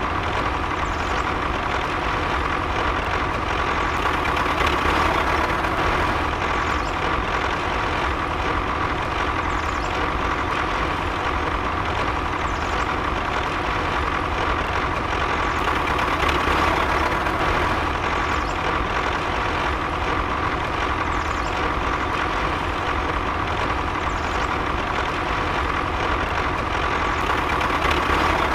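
A small motor running steadily with a constant whine, the sound of the DIY model tractor's drive.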